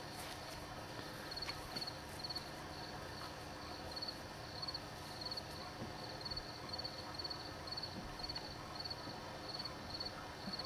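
Cricket chirping steadily at night, about two short trilled chirps a second, faint over a low background hiss.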